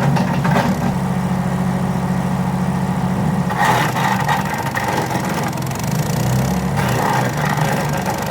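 The RATO 212cc single-cylinder petrol engine of a Forestwest 7HP wood chipper runs steadily. From about halfway through, a louder chipping noise joins it as branches go through the blades, and the engine note wavers under the load.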